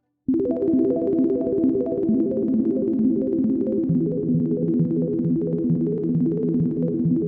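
Xfer Serum 2 synth arpeggio preset playing a fast, repeating pattern of pitched notes, starting abruptly about a quarter second in. A lower note line joins about halfway through.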